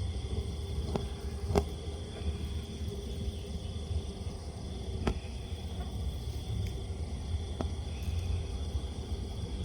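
Steady low rumble of outdoor background noise with a faint steady high-pitched tone, broken by a few sharp clicks, the loudest about one and a half seconds in.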